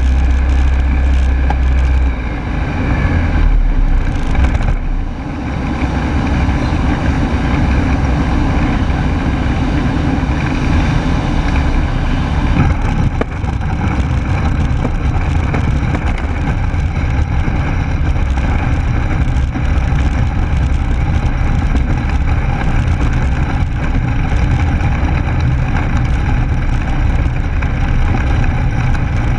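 Rotax 912S engine of a Rans Coyote S6 ultralight running at cruise power, heard from inside the cockpit. About two seconds in it is throttled back for a practice engine failure and its low hum drops away. A steady rush of airflow and low-power engine noise continues through the glide.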